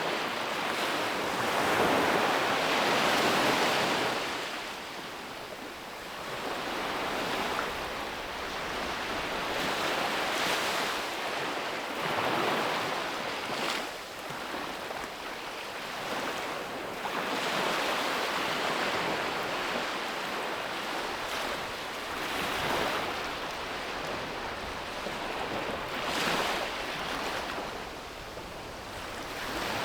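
Sea waves breaking on a beach and washing up the shore in a series of swelling surges a few seconds apart, the first the longest and loudest.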